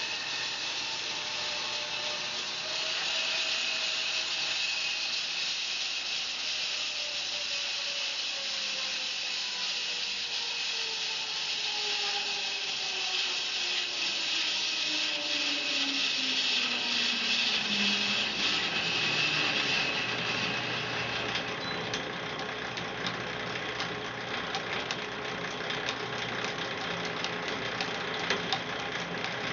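Home-built bandsaw mill sawing a fir log, a high-pitched sawing noise over the running engine, with a tone that slowly falls in pitch. The sawing noise stops about two-thirds of the way through, leaving the mill's engine running at idle with light ticking.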